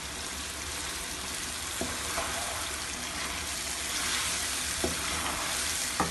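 Chicken pieces frying in oil over a high flame, sizzling steadily as yogurt and tomato purée are stirred in with a spatula. A few light knocks of the spatula against the pan.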